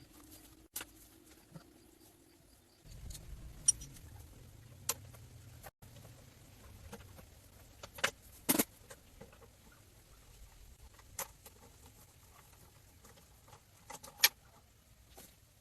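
Scattered sharp clicks and taps, a few at a time, the loudest about eight and a half seconds in, over a low rumble that starts about three seconds in.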